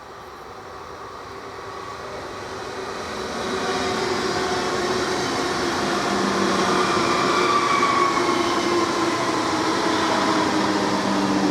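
Electric S-Bahn multiple-unit train approaching, growing louder over the first few seconds and then running close by. It carries a steady electric whine with several tones, one of them sliding slowly down in pitch.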